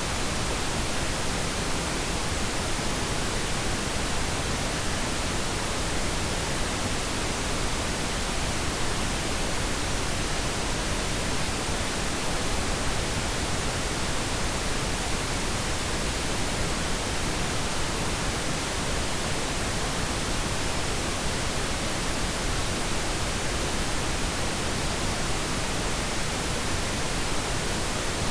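Synthetic pink noise: a steady, even hiss spread across all pitches, with no changes or events.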